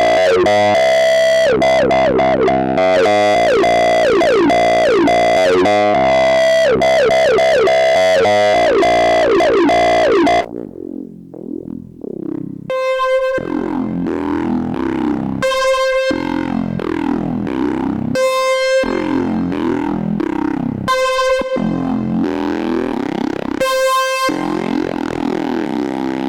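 Dreadbox Typhon monophonic analog synthesizer playing its factory presets. For the first ten seconds it plays a loud, dense patch of rapid falling pitch sweeps over a held tone. After a short dip, a new patch plays a bright note repeated about every two and a half seconds, each with a short tail.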